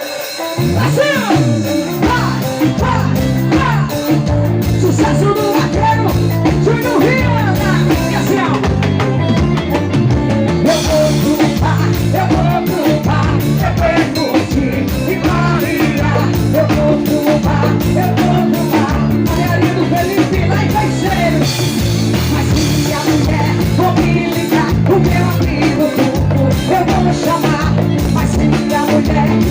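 Live forró band playing loud and steady through a PA: a drum kit and bass keep an even beat under a singer's voice.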